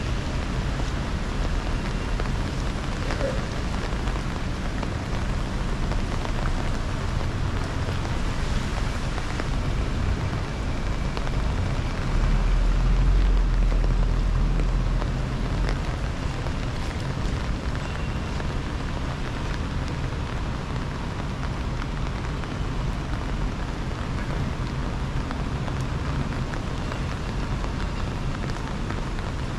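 Steady rain falling and pattering on surfaces, an even hiss with small scattered drips. A low rumble swells briefly about halfway through.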